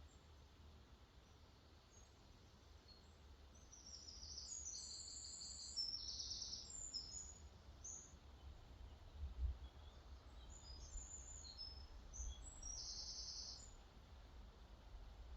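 A songbird singing in two spells of quick, high chirps, one about four seconds in and another around ten to thirteen seconds, over a faint, steady low rumble.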